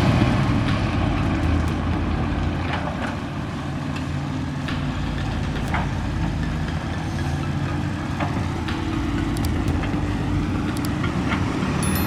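Heavy truck's diesel engine running steadily at low revs, with scattered light clicks and knocks.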